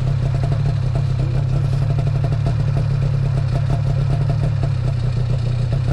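Snowmobile engine running steadily at an even speed, with a fast, regular clatter.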